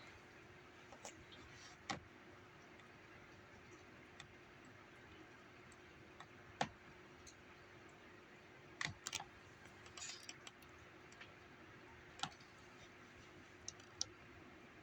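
Faint steady hiss and low hum, with scattered sharp clicks at irregular intervals, a few of them in quick clusters.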